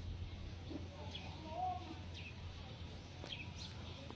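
Short high-pitched animal chirps, each dropping in pitch, four or five at irregular intervals over a steady low hum.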